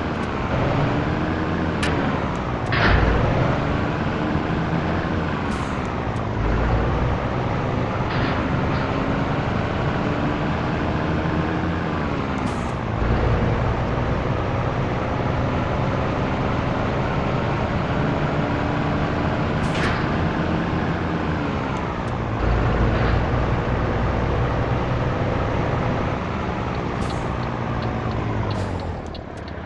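Scania truck's diesel engine pulling through the gears: its pitch climbs, then drops at each gear change, about four or five times. There are short air hisses around several of the shifts.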